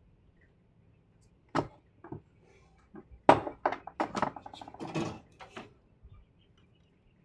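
Tools and parts handled on a workbench: a run of sharp knocks and clicks with short clattering rattles, the loudest about a third of the way in, then quiet again before the end.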